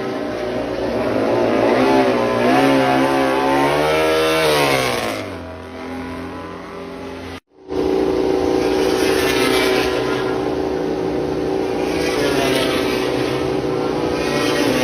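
MotoGP racing motorcycle engines on track: a high engine note rises and falls with revving and gear changes, then fades about five seconds in. After a brief dropout in the audio, a steady high engine note holds to the end.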